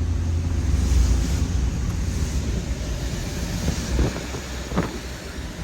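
Suzuki pickup driving on the motorway: a steady low engine and road rumble with wind noise on the microphone.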